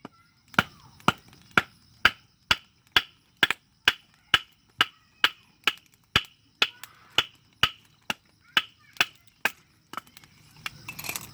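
Homemade steel camping knife chopping into firewood: a steady run of sharp wooden blows, about two a second, that trail off near the end.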